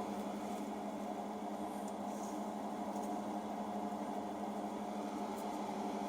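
A steady machine hum with a low drone and a faint hiss, unchanging throughout, with no distinct knocks or clatter.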